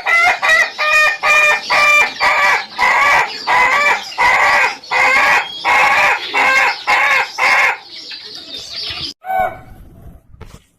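Ayam ketawa (Indonesian laughing rooster) crowing: a long, laughter-like string of short, rapid notes, about two a second, that breaks off after about eight seconds, followed by one more short note.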